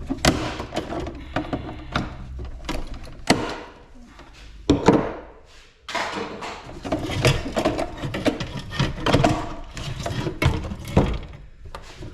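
Knocking and clattering of metal and plastic parts as a small ice maker is pried and pulled apart by hand, with a few sharper single knocks and a brief lull partway through.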